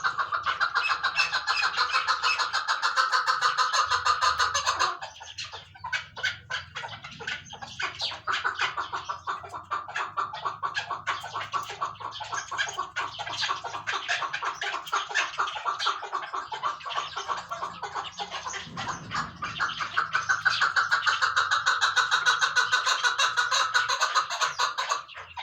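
Chukar partridge calling: a fast, steady run of repeated clucking notes, loudest in the first five seconds and again near the end, with a looser, quieter chatter in between.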